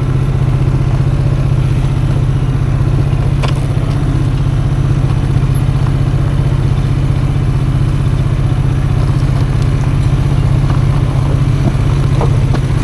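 Custom motorcycle engine idling at a steady, unchanging pitch while the bike coasts downhill in neutral on a stony track, with one sharp knock about three and a half seconds in.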